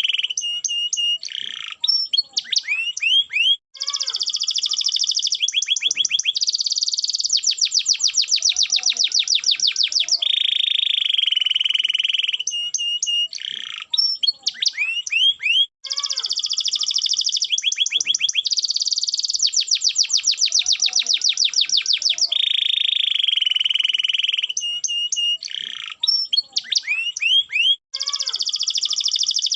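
Domestic canary singing loudly in long rapid trills and rolls, broken by sharp rising notes. The same run of phrases repeats about every twelve seconds.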